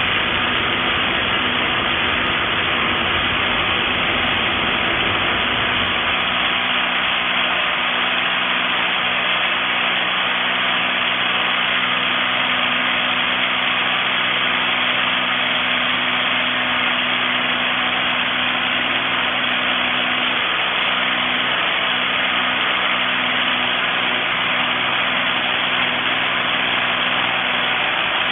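XCORT XZC06-26 corded SDS-plus rotary hammer running steadily, its motor and hammer mechanism giving an even, unbroken noise.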